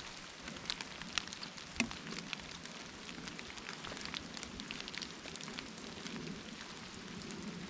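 Steady rain falling, an even patter of drops with a few sharper drop ticks in the first couple of seconds.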